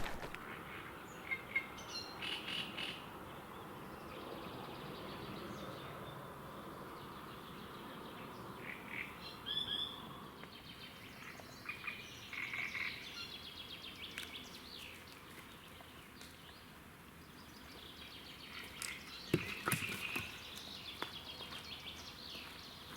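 Small birds chirping and calling at intervals, over a faint steady rush of gusty wind. A few sharp clicks come about two-thirds of the way through.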